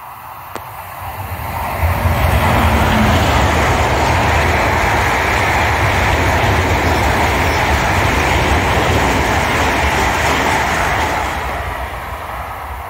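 Long Island Rail Road electric train passing through the station: the rush of wheels on rail builds as it approaches, stays loud for about nine seconds as the cars go by, and fades near the end as it runs away down the line.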